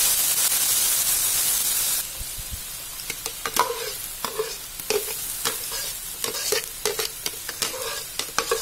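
Ground chili spice paste frying in hot vegetable oil in a wok. It sizzles with a loud hiss that drops to a softer one about two seconds in, then crackles with frequent sharp ticks and short pops as the paste bubbles.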